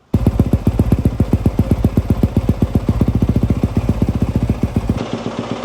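2024 Yamaha YZ250FX's single-cylinder four-stroke engine running steadily with an even, rapid pulse, being warmed up so the oil flows before an oil change. It cuts in abruptly at the start.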